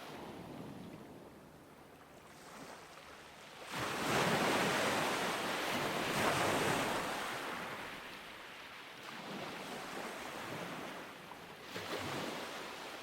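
Ocean waves breaking on a beach: a quiet lull, then a wave crashes about four seconds in and washes up and recedes over several seconds, with a smaller wave breaking near the end.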